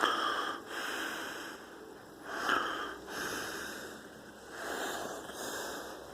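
A man breathing heavily close to the microphone, roughly one breath every second.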